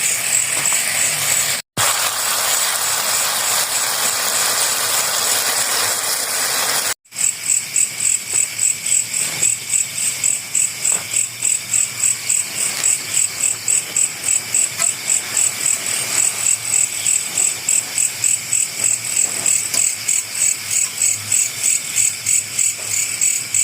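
Night insects, crickets or similar, chirping in a steady high-pitched rhythm of about three pulses a second. The sound cuts out briefly twice in the first seven seconds.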